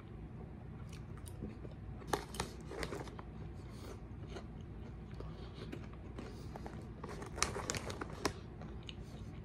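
Quiet chewing and crunching of chocolate cereal-coated popcorn, with sharp crackles about two seconds in and a cluster near the end as a hand goes into the crinkly plastic snack bag.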